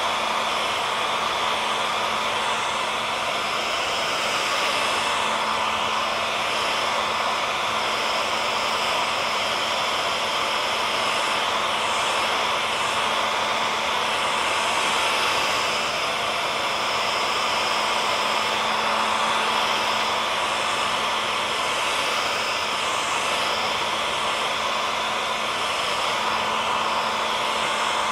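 Handheld hair dryer running steadily: an even rushing of blown air with a constant motor whine.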